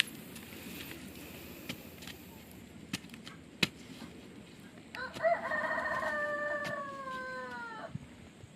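A rooster crowing once, about five seconds in: one long call of roughly three seconds that sags in pitch at the end. Before it come a few sharp clicks or knocks.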